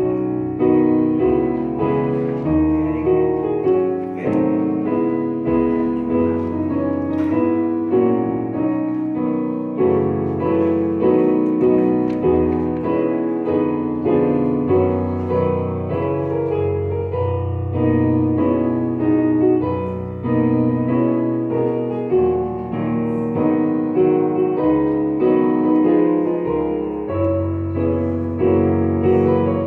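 Keyboard instrument playing slow instrumental church music: sustained chords over a moving bass line.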